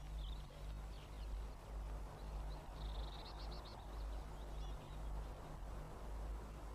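Faint high calls of small garden birds: a few short chirps and, about three seconds in, a quick rippling trill. A steady low hum runs underneath.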